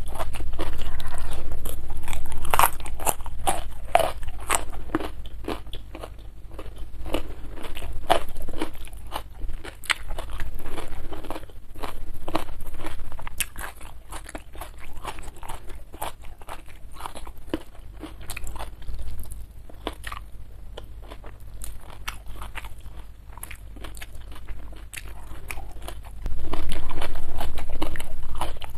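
Close-miked chewing and crunching of food in the mouth, with many small irregular mouth clicks, louder in the first few seconds and again near the end.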